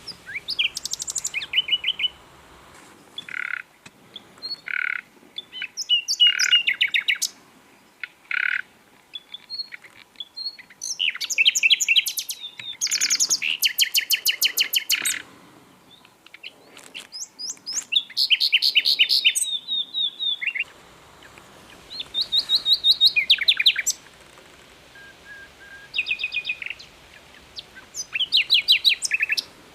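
Common nightingale singing a string of varied phrases, each separated by a short pause. Some phrases are slow whistled notes and others are fast runs of repeated notes.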